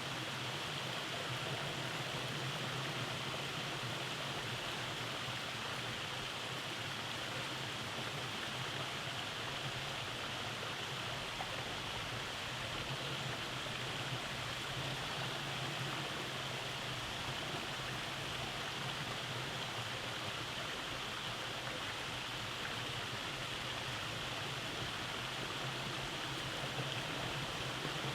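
Rainforest stream running over rock cascades: a steady, even rush of flowing water.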